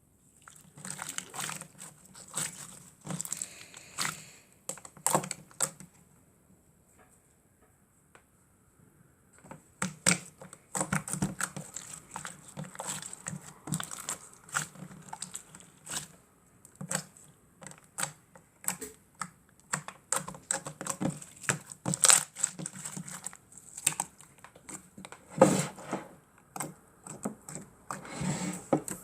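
Slime being squeezed and kneaded by hand, making irregular sticky clicks and crackles, with a pause of about three seconds starting about six seconds in.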